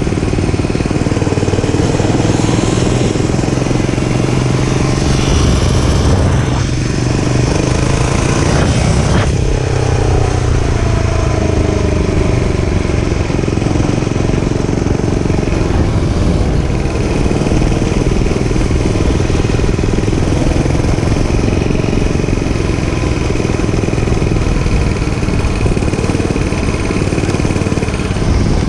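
Dirt bike engine running while riding, its revs rising and falling as the throttle is worked.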